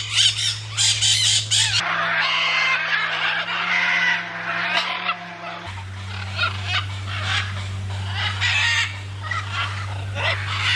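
Birds squawking repeatedly in an aviary, with many short, harsh calls over a steady low hum.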